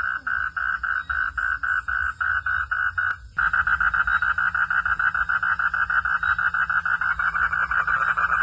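Frogs calling at night: a loud, steady pulsing chorus at about five pulses a second. It breaks off abruptly for a moment just after three seconds in, then carries on with faster, denser pulsing.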